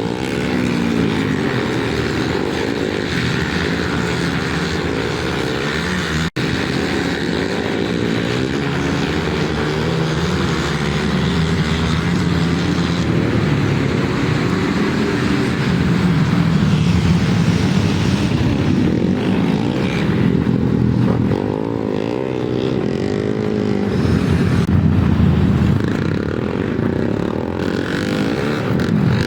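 Several flat track racing motorcycles running at speed together, their engine notes overlapping and rising and falling as they accelerate and back off through the turns.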